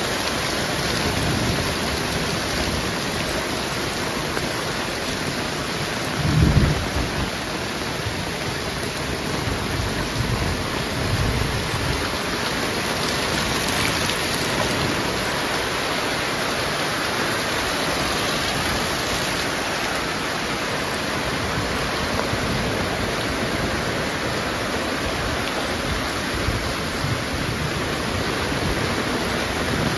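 Heavy rain falling steadily, with a short, low boom about six seconds in.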